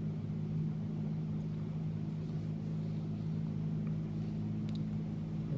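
Steady low mechanical hum from a running motor, with a few faint ticks about four to five seconds in.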